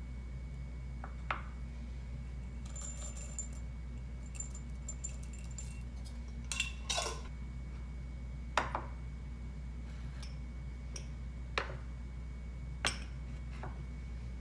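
Kitchenware clinking and knocking now and then, with half a dozen sharp clinks and a few light ticks, over a steady low hum.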